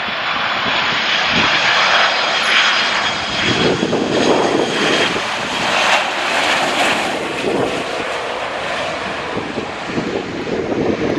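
Aeroplane passing low overhead on its landing approach, its engine noise swelling over the first couple of seconds, holding, then easing slightly, with a faint steady whine in it early on.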